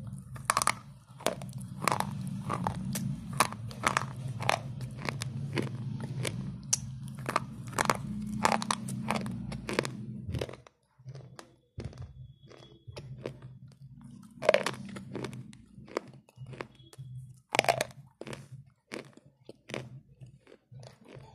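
Slate pencils being chewed close to the microphone, a dry crunching. For about ten seconds the crunches come thick and fast over a low rumble, then they turn sparse, with two louder crunches later on.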